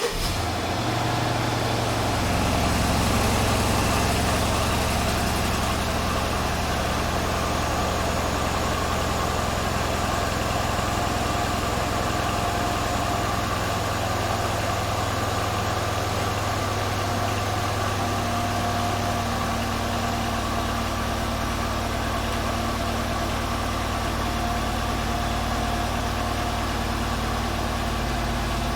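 Mercedes-Benz E500 (W212) M278 4.7-litre twin-turbo V8 idling on its stock exhaust just after a cold start: a steady fast idle, a little louder in the first few seconds, then settling.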